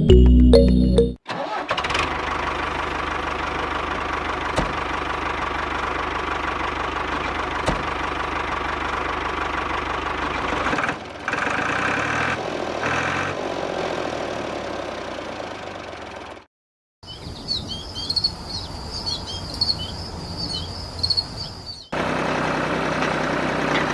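A small motor running steadily, heard across several separate clips with abrupt cuts and a brief dead gap between them. High twittering chirps sit over one of the later clips.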